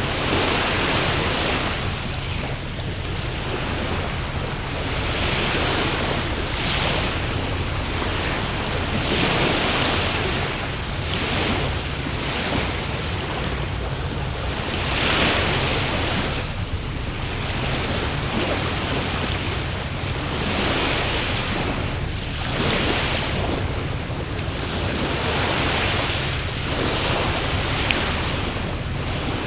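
Wood fire burning with a steady hiss of flames and scattered soft crackles, over a steady high-pitched whine.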